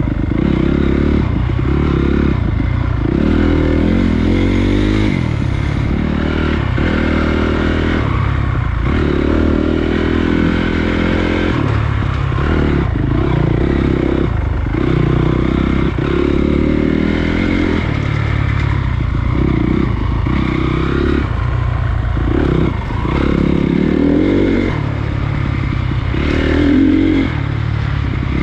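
Honda CRF250 dirt bike's single-cylinder four-stroke engine running while being ridden, its pitch rising and falling again and again as the throttle is opened and closed.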